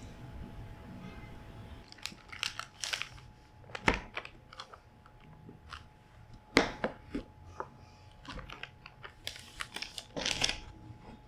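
Kitchen food-prep handling sounds: scattered crinkling and rustling with light clicks and knocks, and two sharper knocks about four and six and a half seconds in. A faint steady hum runs underneath.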